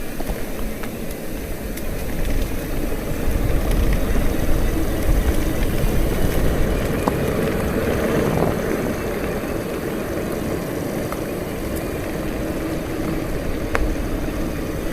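Bicycle riding downhill: wind rushing over the microphone and a steady tyre rumble, with a few faint clicks.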